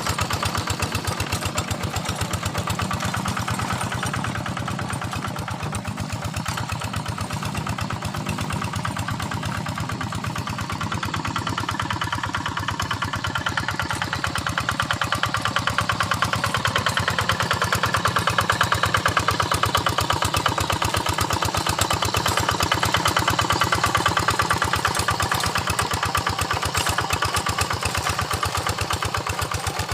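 Quick Impala two-wheel hand tractor's single-cylinder diesel engine running steadily under load while working a rice field, with a fast even chugging. It gets a little quieter for several seconds, then louder again.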